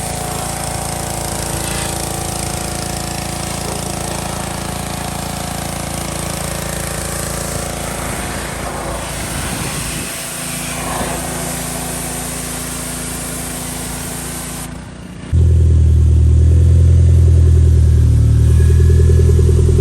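An engine running steadily. About three-quarters of the way through it cuts to a louder, deeper car engine idling.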